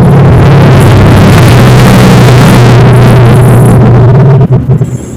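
A loud engine running close by: a steady low hum under a noisy rush, which drops away suddenly about four and a half seconds in.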